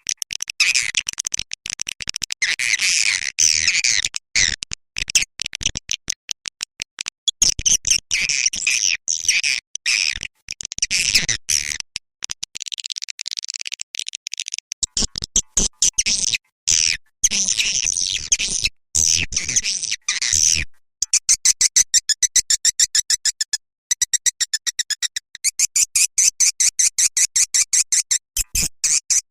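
Swiftlet lure call recording of edible-nest swiftlet chirping: dense, high twittering chirps with frequent abrupt breaks, turning about two-thirds through into a fast, even train of short clicking chirps. It is the kind of call played from a swiftlet house to attract swiftlets to nest.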